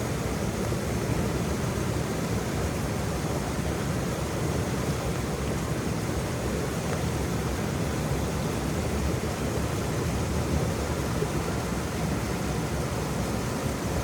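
Waterfall, a steady rush of falling water with no breaks or changes.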